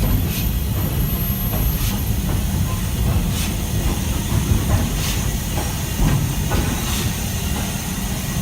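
Stanier 8F steam locomotive: a steady low rumble with steam hissing, and a faint beat about every second and a half.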